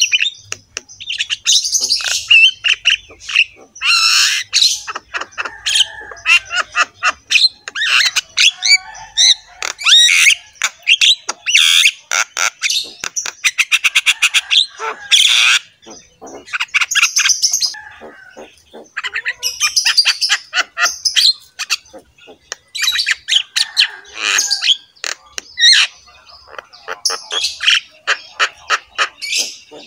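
Birds calling: a dense, loud run of rapid chirps and harsh squawks with short pauses between bursts.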